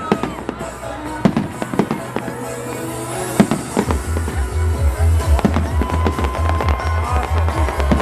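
Fireworks going off in a rapid string of sharp bangs and crackles. Music with a heavy, evenly repeating bass beat plays underneath, louder from about four seconds in.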